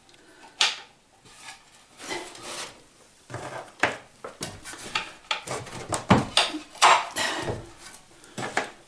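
Handling of metal bolts and tools: irregular clinks, knocks and scraping, sparse at first and busier from about three seconds in.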